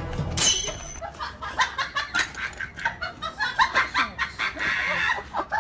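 A quick run of short, repeated animal calls, several a second, with a brief high squeak near the start.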